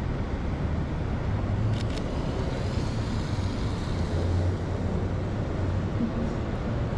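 City street traffic: a steady hum of passing cars, with two brief clicks about two seconds in.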